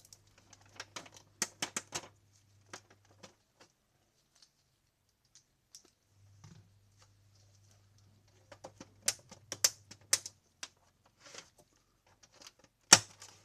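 Irregular plastic clicks and taps from hands working on the opened Canon G2000 printer's mechanism, in two clusters with a quiet gap between, and a sharp knock near the end.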